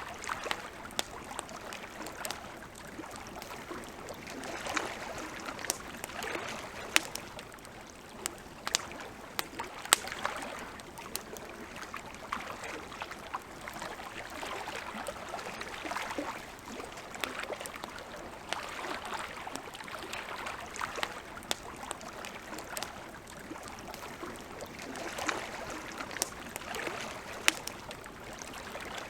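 Wood campfire crackling, with sharp irregular pops and snaps over a soft hiss that swells and fades every few seconds.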